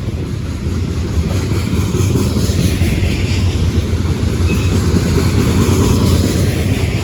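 Freight train rolling past close by: a loud, steady low rumble of wheels on rail, growing a little louder over the first couple of seconds.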